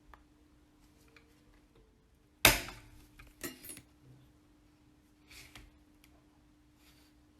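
Small hard parts or tools being handled on a workbench: a sharp clatter about two and a half seconds in, a second clink a second later, and lighter clicks after that. A faint steady hum runs underneath.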